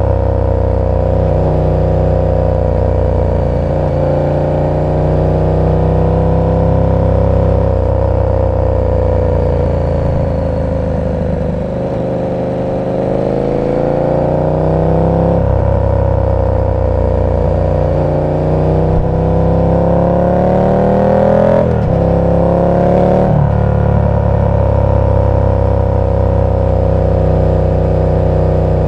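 KTM 1290 Super Duke R's V-twin engine running through an aftermarket exhaust while riding: the engine note climbs and falls with the throttle and drops at gear changes. The revs ease off a little before halfway, then build again, with two quick shifts about three quarters of the way through.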